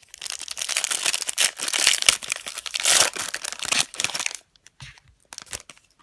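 The plastic wrapper of a trading card pack crinkling and tearing as the pack is opened by hand, for about four seconds, followed by a few light taps near the end.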